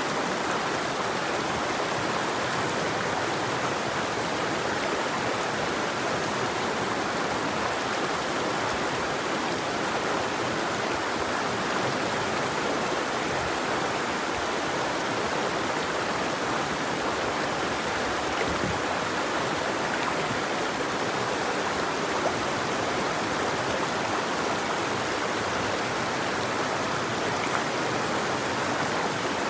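River water flowing over rocks: a steady, even rush with no birdsong.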